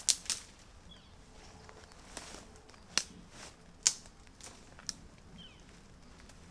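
About five sharp clicks or snaps, spaced irregularly, over a quiet hissing background, with two faint short high chirps in between.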